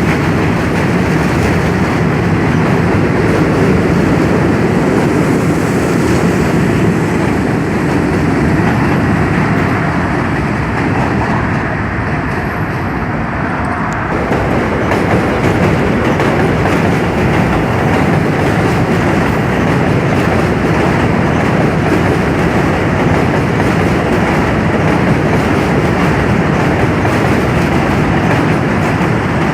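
New York City subway train running over a bridge: a loud, steady rumble with the clatter of wheels on the rail joints.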